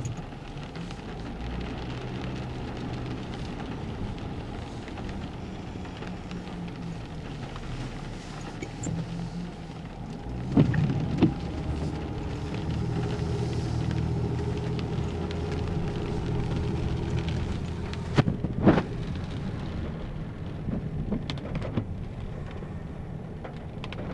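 A vehicle engine running with steady road noise, its low hum rising and falling. There are a couple of sharp knocks about ten seconds in and again a little over eight seconds later.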